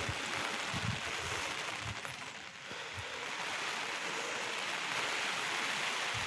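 Heavy monsoon rain falling steadily as a dense hiss, with scattered low thumps.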